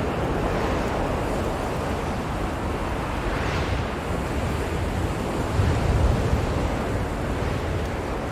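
Blizzard wind blowing strongly and steadily, with a louder, deeper gust a little past halfway.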